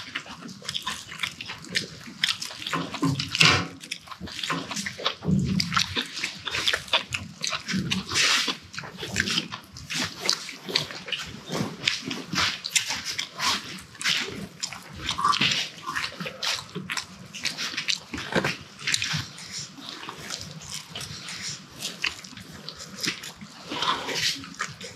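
People chewing and smacking their lips while eating: a dense, irregular run of small wet clicks and smacks.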